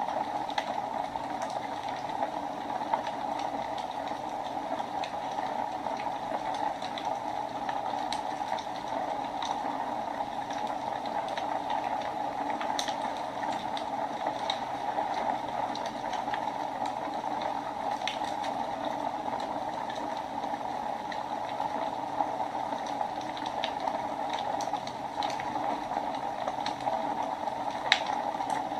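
Wood fire burning in a fireplace: a steady hiss with scattered sharp crackles and pops, one louder pop near the end.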